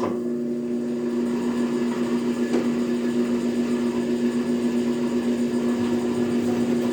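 Metal planer's electric drive motor running with a steady hum, driving the table through a slow cutting pass; there is a faint click about two and a half seconds in, and the hum drops away at the very end.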